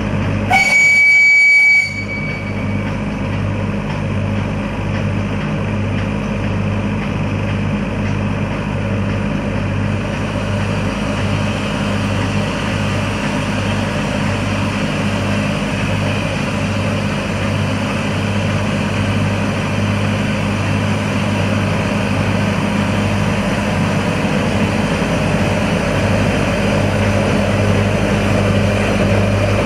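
A Nilgiri Mountain Railway train gives one brief whistle blast, then runs steadily with a low, evenly repeating pulse.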